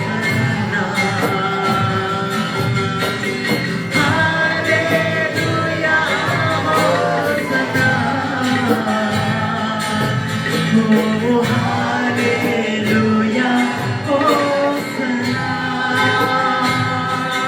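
Live gospel worship music: a band playing with voices singing over it and a drum beat running through.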